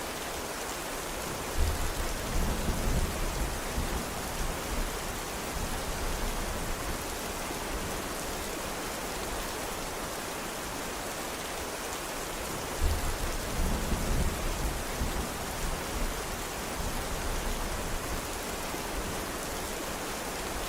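Steady heavy rain falling, with two low rolls of thunder: one near the start and one just past the middle, each starting sharply and rumbling away over a few seconds.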